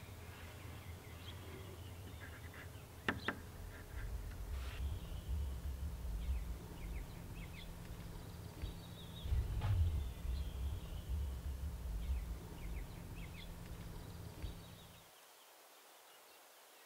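Small birds chirping in short calls over a low rumble that cuts off near the end, with two sharp clicks, one about three seconds in and one about ten seconds in.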